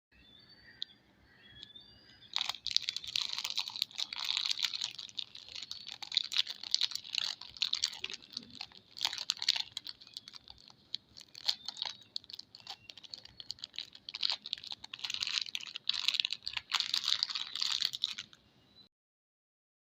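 Soap packaging being unwrapped by hand: a dense run of crisp crinkling and crackling that starts about two seconds in and stops shortly before the end.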